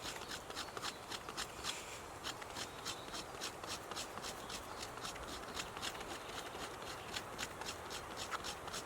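A quick, steady run of short scraping strokes made by hand, about three or four a second, which stop at the very end.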